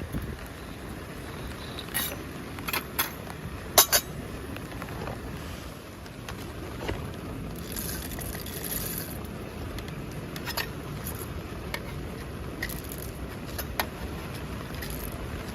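Steady rain hiss with a scatter of sharp clinks and taps, the loudest a quick pair about four seconds in.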